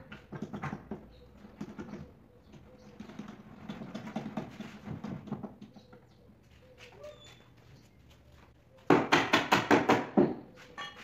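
A quick run of about eight sharp, loud knocks on wood near the end, some five a second, after quieter scattered handling noises.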